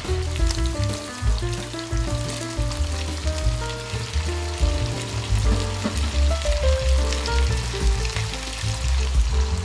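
Chicken pieces and frozen peas sizzling and crackling in butter and oil in a frying pan, with background music playing over it.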